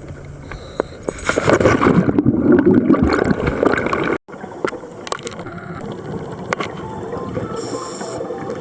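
Scuba diver's exhaled bubbles gurgling and crackling past an underwater camera. About four seconds in, the sound cuts off abruptly and comes back as a steadier, quieter underwater rush.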